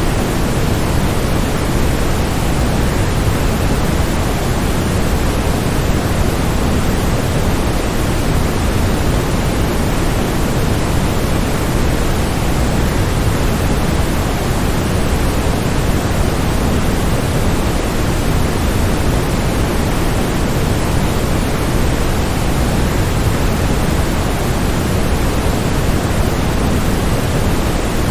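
Waterfall, a steady, unbroken rush of falling water. It is deep and full in the low end, thinning toward the highs, with no change in level.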